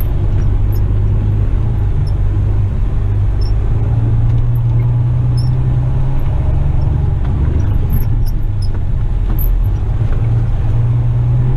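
Western Star tipper truck's diesel engine heard from the cab as the empty truck drives across soft ground, a steady low drone whose pitch rises and falls slightly with the revs.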